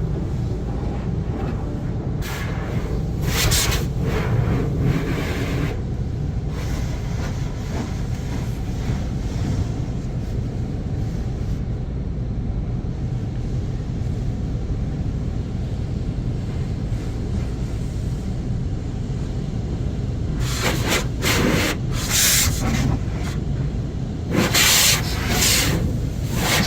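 Automatic tunnel car wash heard from inside the car: a steady low rumble of the wash machinery, with the rotating brushes and water spray sweeping over the body in loud hissing, rubbing bursts a few seconds in and again from about twenty seconds in.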